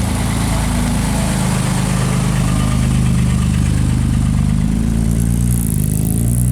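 A vehicle engine idling steadily, its note shifting slightly about five seconds in.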